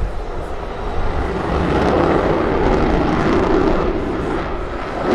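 F-16 fighter jet's engine noise, a dense rumble that swells from about a second in, is loudest in the middle and eases slightly near the end.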